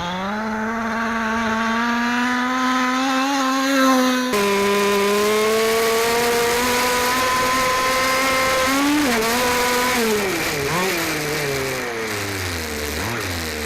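29cc two-stroke engine of a Losi 5ive-T 5th-scale RC truck running at high revs, heard from a camera riding on the truck. The pitch climbs slowly over the first few seconds, drops suddenly about four seconds in and holds steady, then falls away and wavers at low revs near the end as the throttle is eased.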